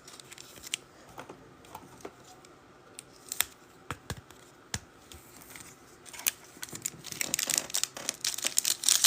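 Trading cards and a card pack being handled, with scattered light clicks and taps, then from about seven seconds in a dense crinkling of a foil pack wrapper being torn open.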